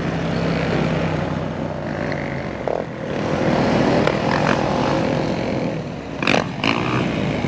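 Motorcycle engines running, with a few short sharp sounds near the end.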